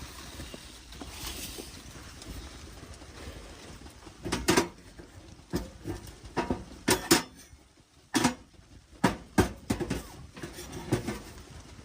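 A series of sharp knocks and clatters, about a dozen in irregular groups over several seconds, after a few seconds of steady low background noise.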